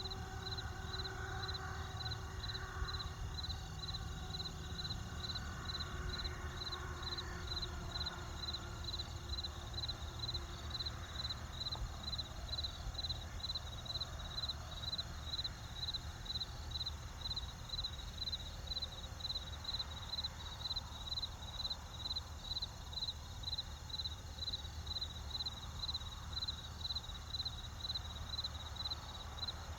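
Crickets chirping in a steady, even rhythm, over the low crackle and rumble of a campfire.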